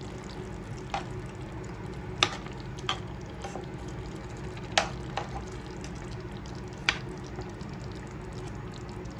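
Chicken curry sizzling steadily in a pan with a little water just added, while a utensil strikes the pan with about half a dozen sharp clinks as it is stirred.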